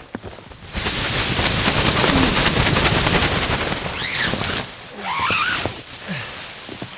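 Tent fabric rustling loudly as the tent is pulled down and handled for about four seconds, followed by a few short squeaks about four and five seconds in.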